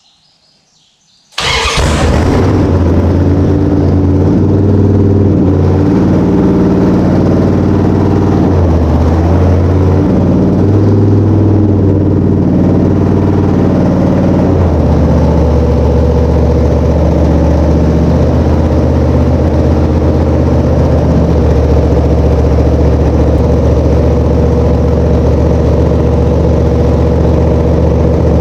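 A freshly installed small-block Mopar 318 V8, on break-in oil, fires on its first start about a second in and runs loud. Its speed wavers for the first dozen seconds or so, then settles to a steadier fast idle.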